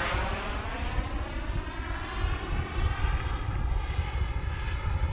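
Radio-controlled model jet flying past, its turbine giving a steady rushing whine that sweeps in pitch as it passes and drifts off.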